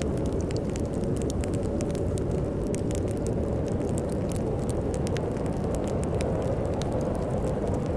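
Wood fire crackling in a fireplace, with irregular sharp pops over a steady low rumble of storm wind.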